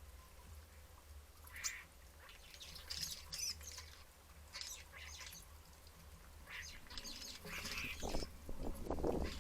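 Common starlings squabbling over food: scattered harsh squawks and chirps that grow busier and lower-pitched near the end, over a low steady rumble.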